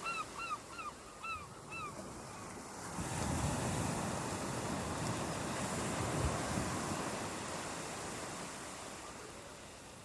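Ocean waves: a wave breaks about three seconds in and washes up the beach, fading slowly toward the end. At the start a bird gives a quick run of short calls, about four a second, that trail off within two seconds.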